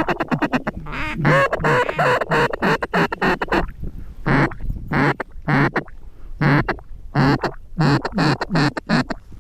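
Goose honks and clucks in a quick series: a fast flurry of clucks at first, then separate sharp honks about every half to one second. A low wind rumble runs underneath on the microphone.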